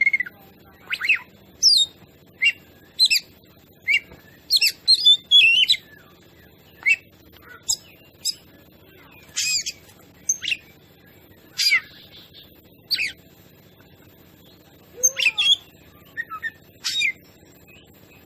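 Oriental magpie-robin (kacer) singing: a rapid string of short, high whistled notes, many falling in pitch, broken by a pause of about two seconds past the middle.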